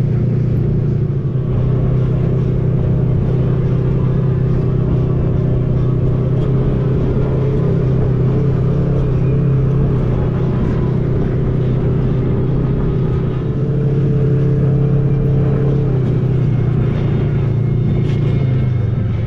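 Side-by-side off-road vehicle engine running at a steady speed, a continuous drone.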